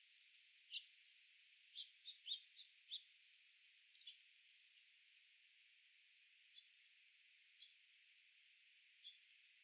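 Small birds giving short, high chirps, about fifteen of them, scattered irregularly over a faint steady hiss.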